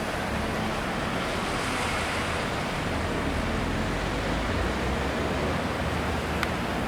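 Heavy sea surf washing steadily against the harbour, mixed with wind on the microphone and a low steady hum underneath.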